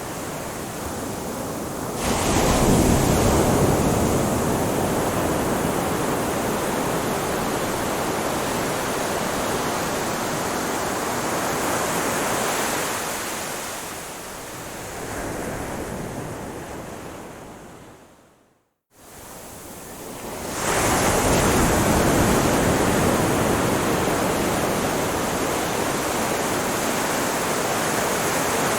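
Ocean waves washing onto a beach: a steady rush of surf that swells as a wave breaks about two seconds in and again about two-thirds through. Just before the second wave, the sound fades briefly to silence and comes back.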